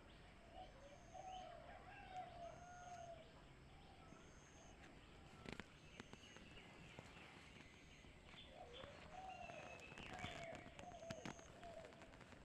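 Faint birds calling: a long wavering call twice, each lasting about three seconds, with higher chirps around it, and a faint short high tone repeating about once a second.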